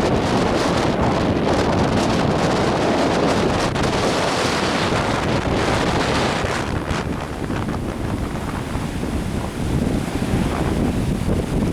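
Strong wind buffeting a handheld camera's microphone over the wash of lake waves breaking on the shore, easing a little past the middle.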